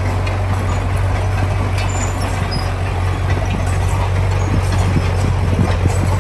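Heavy diesel engine of an earthmoving machine running steadily under load, with a low hum and some short clattering knocks.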